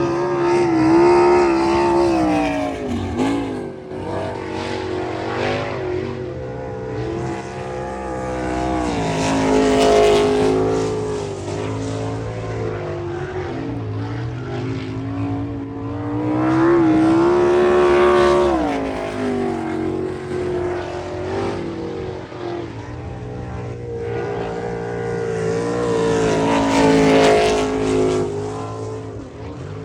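Sprint car engine at full racing speed, rising and falling in pitch several times as the throttle opens down the straights and lifts for the turns.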